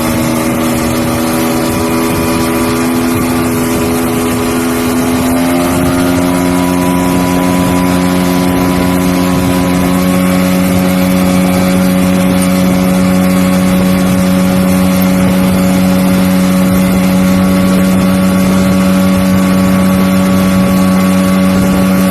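Freshly rebuilt 1986 Evinrude 200 HP V6 VRO outboard running loud and steady with the boat under way, with wind and water noise. The engine note shifts about five seconds in, then holds steady.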